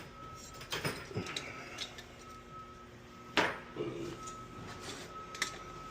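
A few sharp metallic clicks and clinks of tools being handled, as sockets from a ratchet set are picked through. The loudest clink comes about three and a half seconds in.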